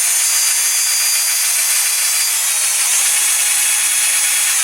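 Small electric drill grinding into a die-cast metal rivet post, drilling it out to free the toy's baseplate. The steady motor note rises slightly about three seconds in, and the drill stops suddenly near the end.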